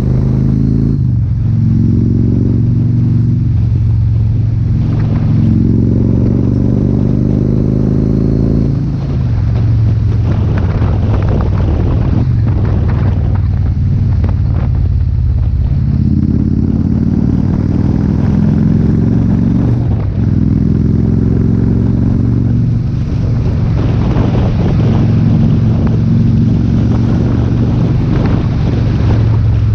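Yamaha Stratoliner XV1900's big V-twin running through a Freedom Performance aftermarket exhaust, a loud, deep note whose pitch shifts up and down in steps. Stretches of rushing noise ride over the engine about a third of the way in and again near the end.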